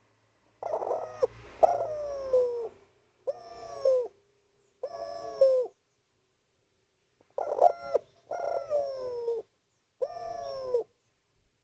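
Spotted dove cooing in a run of phrases, each falling in pitch at its end: a first group of calls, a pause of about a second and a half, then a second group.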